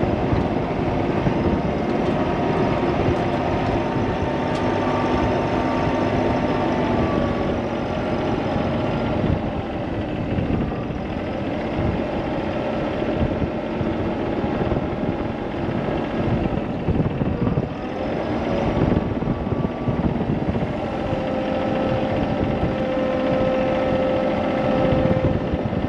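An engine running steadily, its pitch drifting up and down a little as its speed changes.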